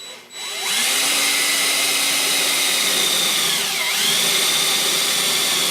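Electric drill boring a hole, its motor whine starting about half a second in, dipping briefly in pitch about four seconds in and then recovering.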